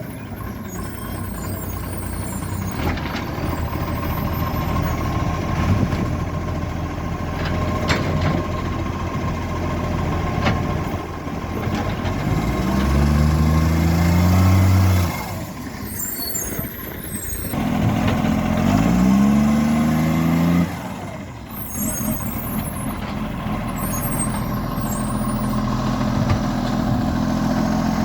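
Diesel garbage truck engine with an exhaust leak, running and pulling up in pitch twice, about halfway through and again about two-thirds of the way, each time dropping off suddenly.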